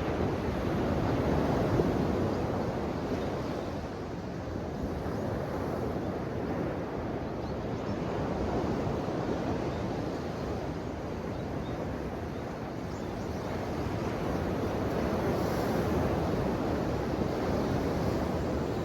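Ocean waves washing and surging in slow swells, building to a peak about every seven seconds.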